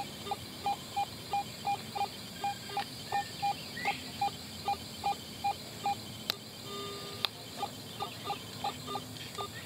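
Metal detector beeping as its coil is swept back and forth over a buried target: a run of short, even beeps, about three a second, shifting to a slightly higher, choppier pattern about seven seconds in. The response sounds very iron-like, the sign of a lot of iron in the ground at this target.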